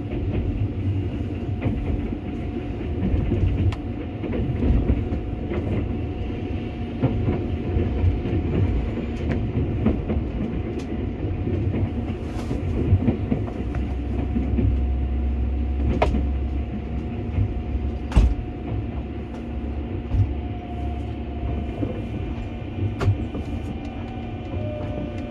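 Sunrise Izumo sleeper train (a 285 series electric train) heard from inside a compartment as it runs in toward a station stop: a steady rumble of wheels on rail, with clicks over rail joints and points, two sharp ones about two seconds apart midway. Near the end a faint falling whine comes in as the train slows for the platform.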